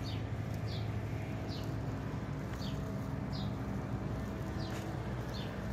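A bird repeats a short, high, falling chirp about seven times, over a steady low machine hum.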